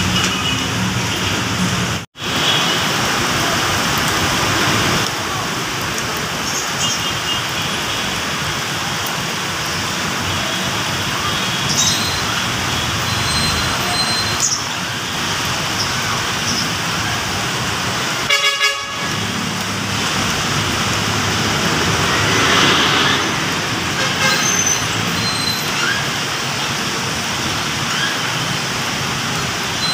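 Busy city road traffic with car horns tooting now and then, under a steady hiss that covers all pitches. The sound drops out for an instant about two seconds in.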